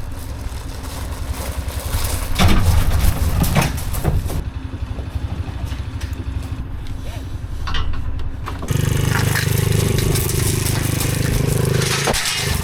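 Motorcycle engine running with a pulsing rumble; about nine seconds in it changes to a steadier, stronger hum whose pitch slowly shifts.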